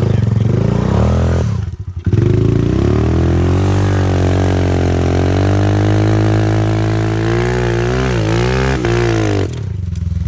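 Thumpstar 110 pit bike's small four-stroke single-cylinder engine being ridden hard over dirt jumps. The throttle is shut briefly about a second and a half in, then the engine revs up in a long pull with its pitch climbing, wavers with a few quick throttle changes about eight seconds in, and drops off near the end.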